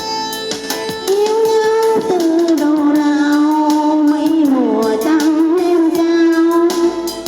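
A song: a singer holds long, wavering notes over instrumental backing, the melody stepping down about two seconds in and sliding down and back up a little before five seconds.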